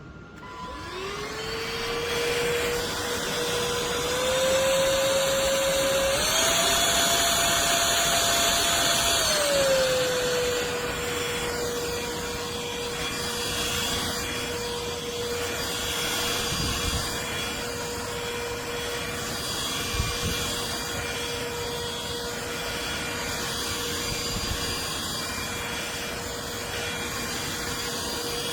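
Trucozie cordless stick vacuum switched on, its motor spinning up to a steady whine. The pitch steps up twice over the next few seconds, holds, then glides back down to the first speed and runs steadily, with a single light knock about two-thirds of the way through.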